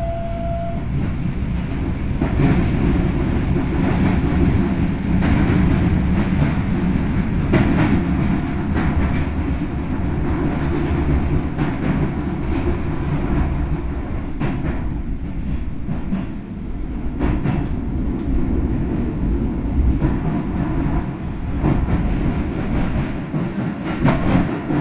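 Keisei 3100 series electric train running, heard from inside the passenger car: a steady low rumble of wheels on rail, with repeated short clicks from the track.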